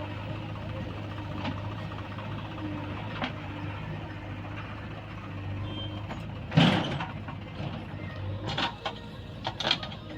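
Heavy diesel engine running steadily, with one loud clattering thud about two-thirds of the way through and a few sharp clanks near the end.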